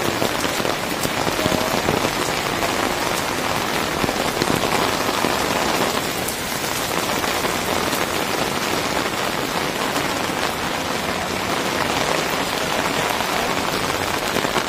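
Steady rain falling on a paved street, splashing on the wet paving.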